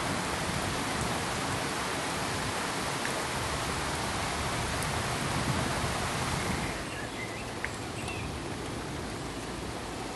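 An even rushing noise, like pink noise, that drops in level and thins out about two-thirds of the way through, leaving a softer hiss with a few faint chirps and ticks.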